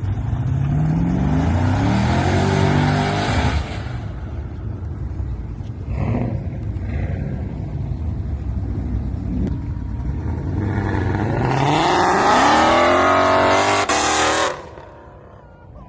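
A car engine accelerating hard, its pitch climbing steeply, then a steadier engine sound, then a second hard climb in pitch that cuts off sharply about a second before the end.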